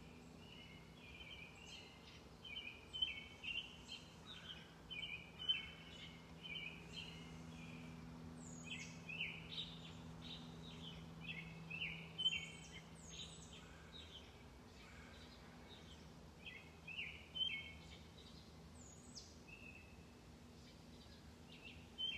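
Songbirds chirping and calling in quick repeated phrases, with a faint steady low hum underneath that fades out about two-thirds of the way through.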